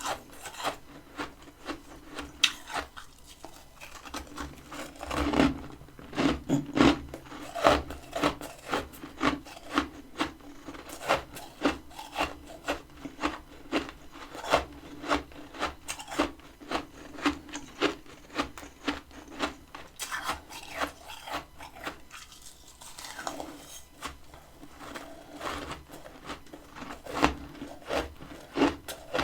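Freezer frost being bitten and chewed close to the microphone: a rapid run of crisp crunches, about two to three a second, with a brief lull a little past two-thirds of the way.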